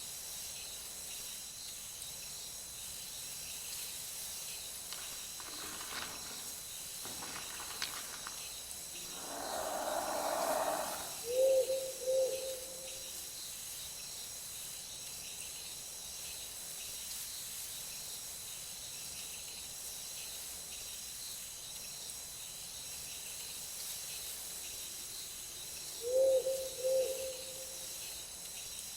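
Night-time forest ambience: a steady high-pitched chorus of insects, with two short low hoots heard twice, about fifteen seconds apart. A soft rushing noise swells for about two seconds just before the first pair of hoots.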